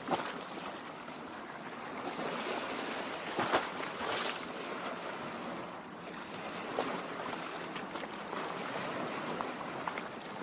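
Lake water lapping in small waves: a steady wash, with a few louder splashes about three and a half to four seconds in.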